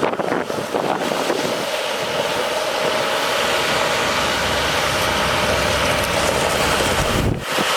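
International 4400 water truck with a MaxxForce DT diesel running, under a loud, steady hiss. The hiss drops briefly about seven seconds in.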